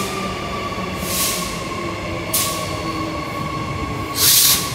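Queensland Rail train running, with a steady high whine and short bursts of hiss, the loudest about four seconds in.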